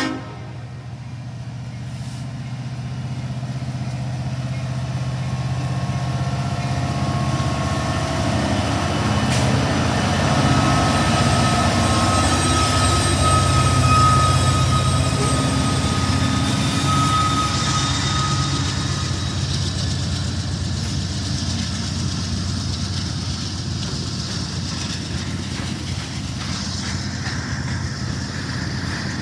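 Freight train passing behind diesel locomotives: a steady low rumble builds to its loudest about halfway through. A thin high tone sounds for several seconds in the middle, then the rumble eases a little as the train rolls on.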